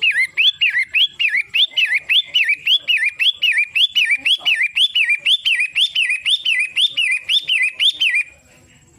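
Long-tailed shrike (pentet) calling: a rapid, even string of loud, sharp whistled notes, each rising then dropping, about three a second, which stops abruptly about 8 seconds in.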